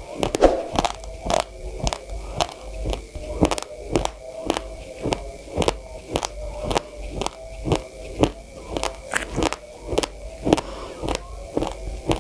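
Raw short-grain white rice crunching as it is chewed: sharp, dry cracks come about two to three times a second as the uncooked grains break between the teeth.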